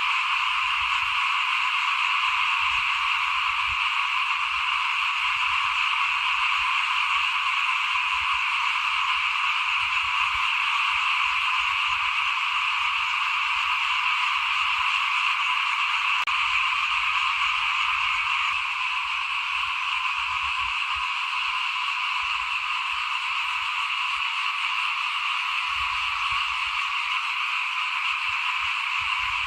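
A dense chorus of many small frogs (khiat) calling continuously in a steady, high-pitched din, slightly quieter about two-thirds of the way through.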